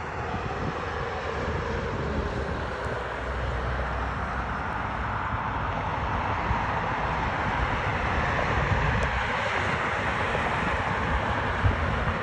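Jet airliner engines running, a steady whooshing rumble that grows slowly louder.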